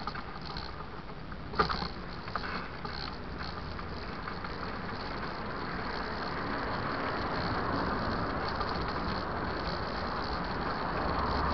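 Mountain bike riding over a dirt trail: a few sharp rattles and knocks in the first two seconds, then a steady rushing of tyres and wind that grows gradually louder as it picks up speed.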